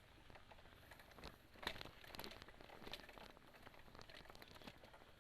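Near silence with faint, scattered crunching and clicking, like leaf litter and twigs on a forest trail; the loudest crackle comes about a second and a half in.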